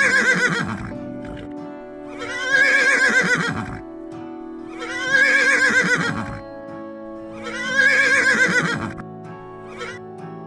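Horse whinnying four times, about every two and a half seconds, each a quavering neigh of a second or so, over steady background music.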